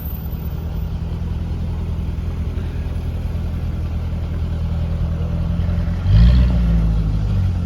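Car engine idling with a steady low rumble, then revved briefly about six seconds in. The revving is louder, with a quick rise in pitch that eases back.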